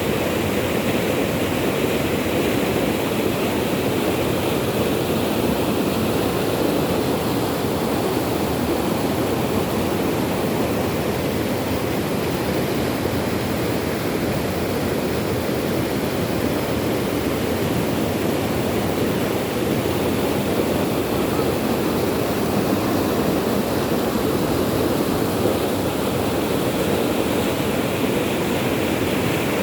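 Steady rushing water, even and unbroken.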